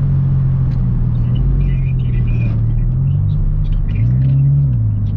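Car engine running with low road rumble while driving; the engine note rises briefly about four seconds in, then drops back.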